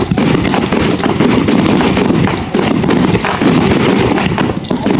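Fireworks going off in quick succession: a dense, continuous run of bangs and crackles.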